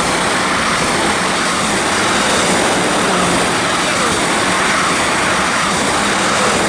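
Two coupled class 444 Desiro electric multiple units passing through the station at speed without stopping: a steady, loud rush of noise.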